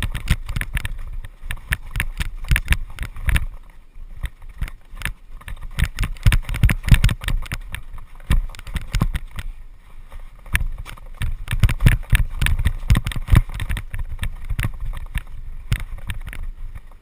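Downhill mountain bike running over a rough trail: irregular clattering and knocks from the bike and chain over bumps, over a heavy low rumble of tyres and wind on the microphone.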